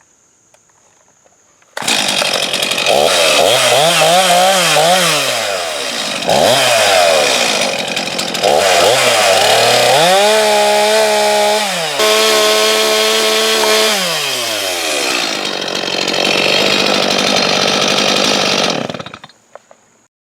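Chainsaw running, revved up and down several times with pitch rising and falling. It then settles at a lower steady speed before cutting off. It starts abruptly about two seconds in.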